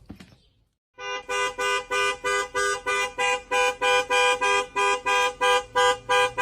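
A two-tone car horn sounding in short, evenly spaced toots, about three a second, starting about a second in after a brief silence.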